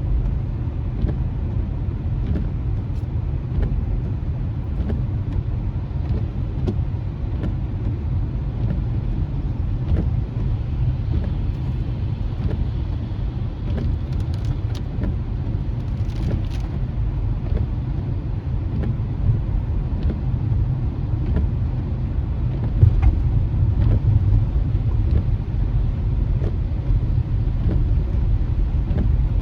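Steady road noise inside a moving car on wet streets: a constant low rumble from the tyres and drivetrain, with faint scattered ticks.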